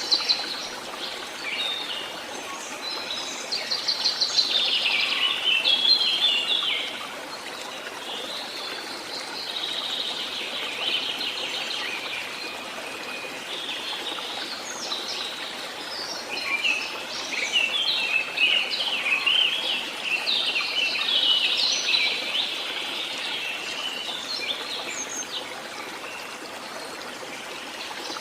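Songbirds singing and chirping in quick, busy phrases over the steady rush of a stream. The birdsong is loudest a few seconds in and again past the middle.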